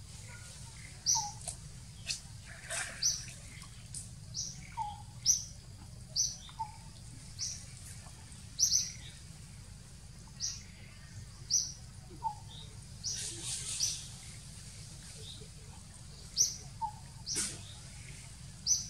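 A bird chirping over and over, one short high call about once a second, with a few lower calls mixed in. Under it runs a steady low hum.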